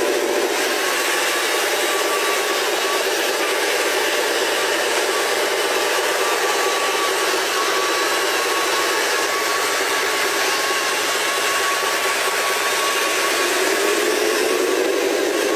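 Radio-controlled model truck running, its electric motor and gearbox giving a steady whine over a rough mechanical noise; near the end a lower tone comes back and rises as it speeds up.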